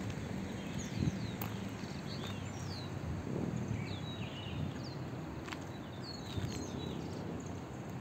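Birds chirping, many short calls that slide quickly downward, repeated throughout over a steady low outdoor rumble.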